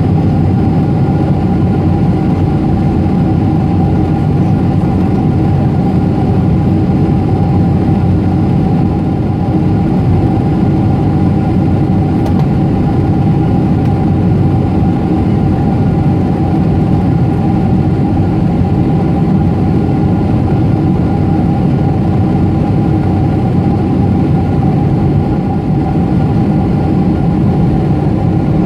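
Steady drone of a Boeing 747-8's GEnx jet engines heard inside the passenger cabin, a dense rumble with a few held tones over it, unchanging throughout.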